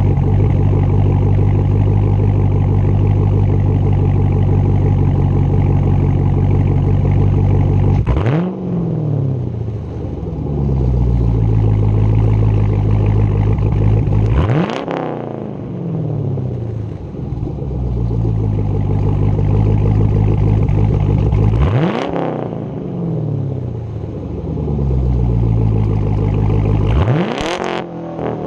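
2015 Camaro 2SS's 6.2-litre LT1 V8 idling through a muffler- and resonator-delete exhaust with an X-pipe. It is then revved four times, each blip rising sharply in pitch and falling back to idle.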